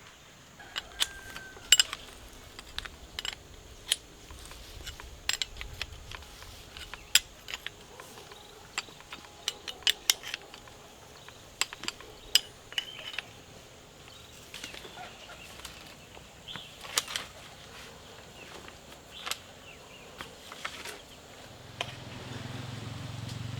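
Irregular sharp knocks and clicks, with a few short fowl calls among them. A low hum comes up near the end.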